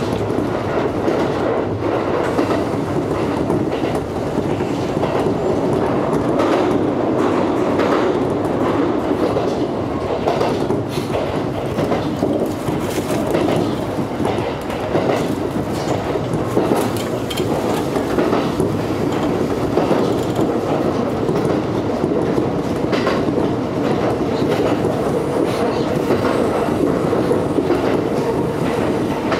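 Kintetsu electric train running on its line, a steady rumble of wheels on rails with scattered clicks over rail joints, heard from inside the front car.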